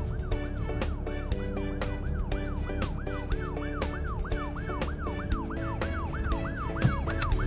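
Fire engine siren in a fast warble, its pitch rising and falling about three times a second, over background music with a steady beat.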